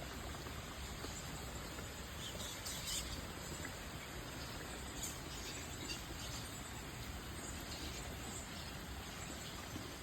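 Birds chirping now and then in short high calls over a steady outdoor hiss.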